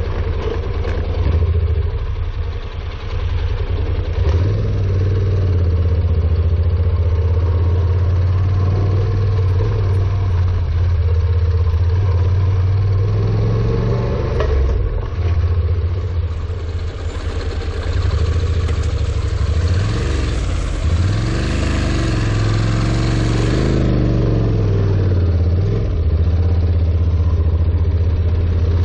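Honda NC700X's parallel-twin engine running at low revs, its pitch rising and falling several times with the throttle. A steady rushing hiss lies under it.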